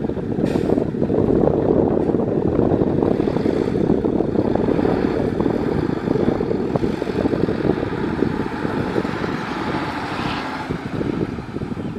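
Heavy construction machinery running steadily: a loud, even, low engine rumble.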